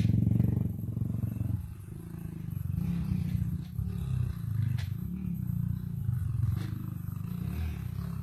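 Dirt bike engine running at low revs, its pitch rising and falling with the throttle, with a few sharp clicks in the second half.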